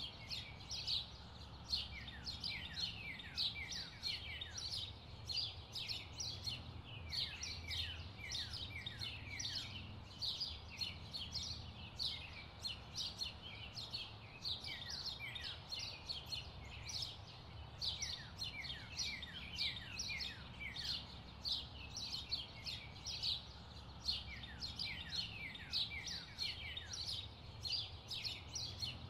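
Small birds chirping continuously, many short downward-sliding chirps a second, over a low steady hum.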